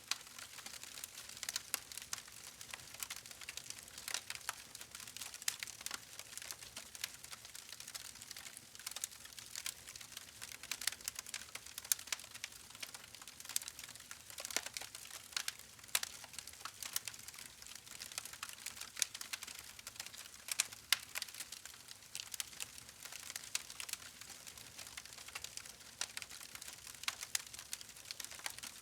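Wood fire crackling steadily: a dense run of small snaps and pops over a soft hiss, with a few sharper pops standing out.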